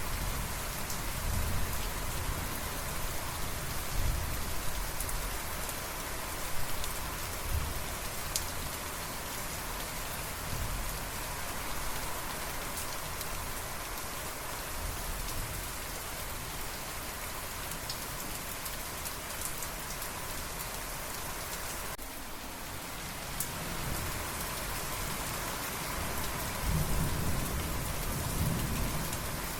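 Steady heavy rain falling, with low rolls of distant thunder rumbling in the first part and again in the last few seconds.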